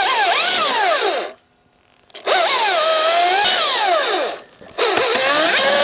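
Electric saw cutting in three bursts. Its whine drops in pitch as it bites and wavers through each cut, and it stops abruptly between bursts.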